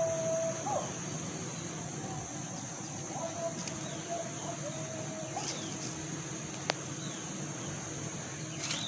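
Outdoor ambience: a steady high-pitched insect drone, with a few short bird chirps and calls and a single click.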